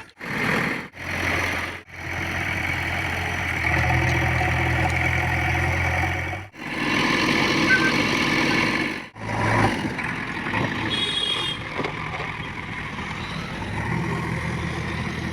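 Diesel engine of a JCB 3DX backhoe loader running, its level and pitch shifting from clip to clip, in several short takes joined by abrupt cuts.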